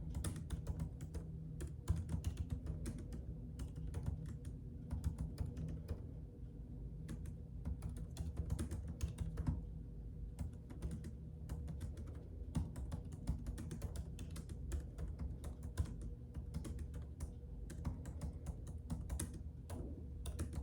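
Typing on a computer keyboard: a steady stream of irregular keystroke clicks over a low, steady hum.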